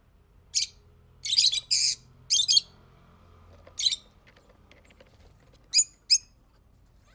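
A bird giving a series of short, harsh, high chirps, seven in all, coming in quick clusters and then more spaced out.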